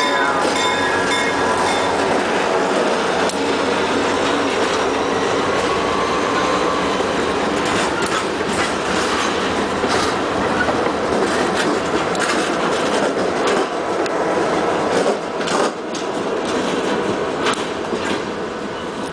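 Freight train rolling past, its steel wheels clicking over rail joints at an irregular beat, with thin high wheel squeal in the first few seconds.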